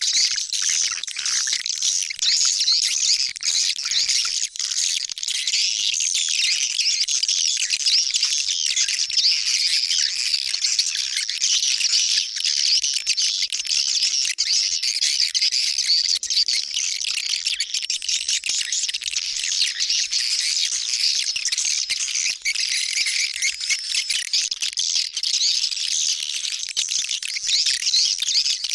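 Swiftlet calling sound of the 'pemecah' type: a dense, continuous twittering of high chirps, as played from speakers to lure edible-nest swiftlets.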